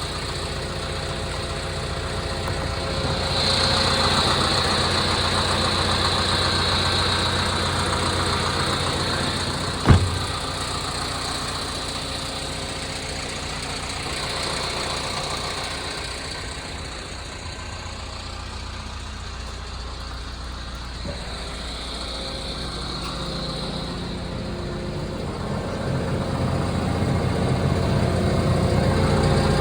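Liebherr R926 LC Compact tracked excavator's diesel engine running, getting louder with a high whine during two spells of work and again near the end. A single sharp clunk comes about ten seconds in.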